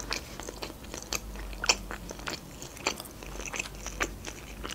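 A person chewing a mouthful of bread close to the microphone: irregular small mouth clicks and smacks, several a second.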